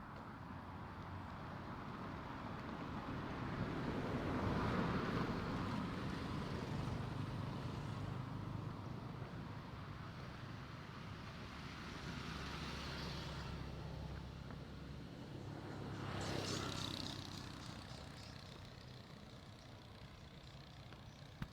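Road traffic: a steady engine hum with vehicles passing, the loudest going by about five seconds in and another about sixteen seconds in.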